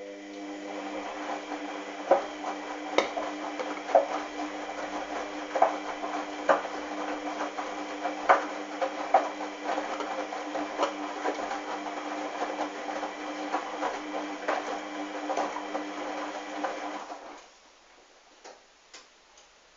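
Hoover washing machine running: a steady motor hum with irregular knocks and clunks through it, cutting off sharply about seventeen seconds in, followed by a couple of faint clicks.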